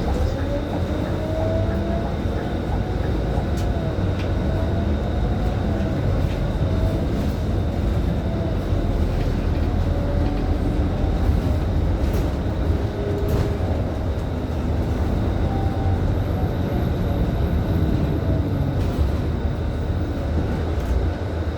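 Scania K310IB city bus engine and drivetrain running under way, heard from inside the bus: a steady low rumble with a whine that rises and falls several times as the bus pulls away and works through its gears.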